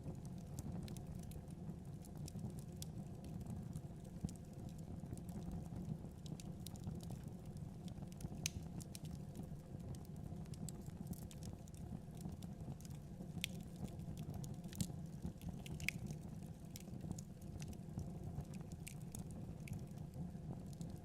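Fire burning in a fireplace: a steady low rush of flames with irregular sharp crackles and pops.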